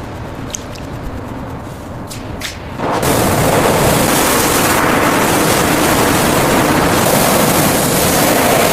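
High-pressure washer spray, a loud steady hiss that starts suddenly about three seconds in, after a quieter stretch of lower spray noise with a few clicks.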